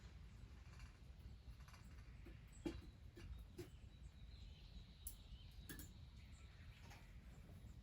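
Near silence with a low hum and a few faint, scattered clicks; the sharpest comes about two and a half seconds in.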